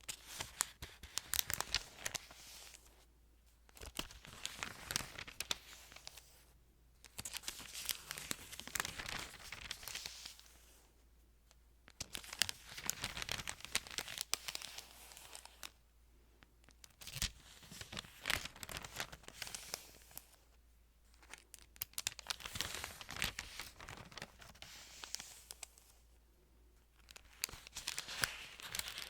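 Thin Bible pages being handled and crinkled close to the microphone: about seven bursts of crackling paper rustle, each a few seconds long, with short pauses between.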